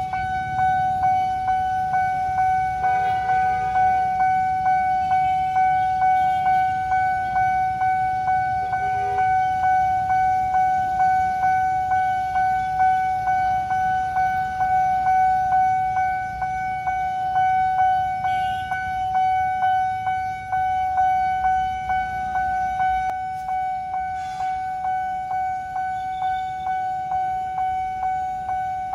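Electronic level-crossing warning bell ringing continuously in a fast, even, repeating strike over low road-traffic rumble. Two short vehicle horn toots sound about three and nine seconds in.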